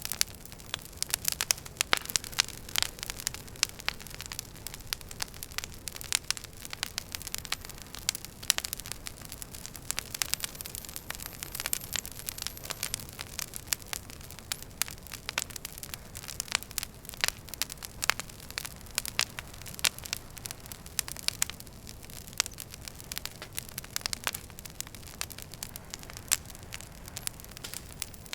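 Wood fire crackling in a fireplace: frequent irregular sharp pops and snaps over a steady low rush of burning.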